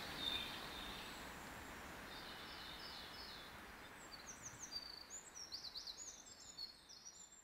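Small birds chirping faintly over a quiet background hiss, with many short high calls in the second half.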